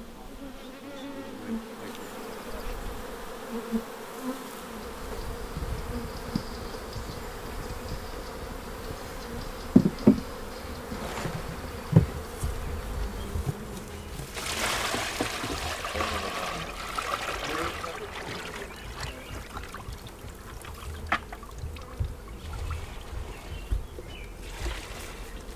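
Honey bees buzzing in a steady hum around an opened hive. A few sharp knocks come about ten and twelve seconds in, and a stretch of hiss follows a little past the middle.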